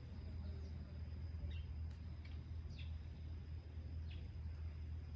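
Insects chirping in even high-pitched pulses, about two to three a second, with a few short falling bird chirps over a steady low hum.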